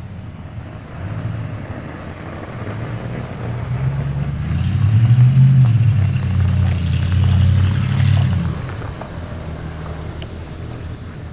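A motor vehicle's engine rumbling past, growing louder from about four seconds in and fading away after about eight seconds.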